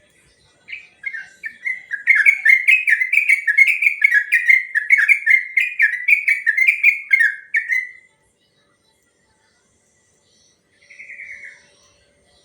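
Yellow-vented bulbul (trucuk) singing a long, fast run of about a dozen falling whistled notes, then a single short call near the end.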